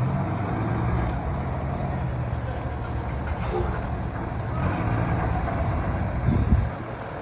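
Fire engine's diesel engine running with a steady low rumble, swelling briefly about six seconds in before dropping off.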